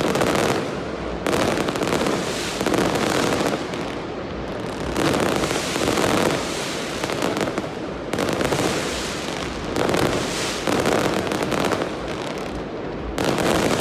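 Fireworks and firecrackers going off in great numbers at once: a dense, continuous crackle of pops that swells and eases in waves every two to three seconds.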